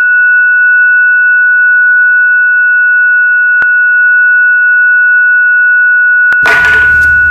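A loud, steady, high-pitched ringing tone, the film sound effect for ringing ears, standing for a character dazed by a blow to the head. Near the end a click sounds and background noise comes back in under the tone.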